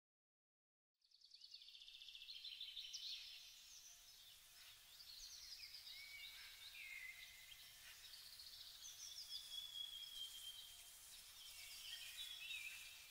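Faint outdoor birdsong: several small birds chirping and trilling in quick high notes, starting about a second in after dead silence.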